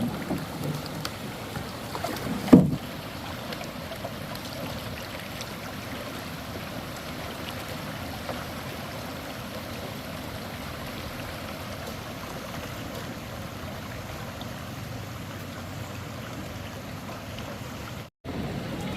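Steady rush of flowing floodwater, with one loud dull thump about two and a half seconds in. The sound cuts out for a moment near the end.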